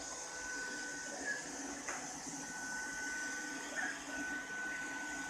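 Ropo Glass robot vacuum cleaner running: a steady high whine over a lower motor hum, the whine dropping out briefly a couple of times, with a single click about two seconds in.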